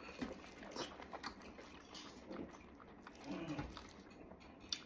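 Faint wet chewing and lip-smacking from a mouthful of soft braised pork knuckle, with scattered small clicks and a brief low hum about three seconds in.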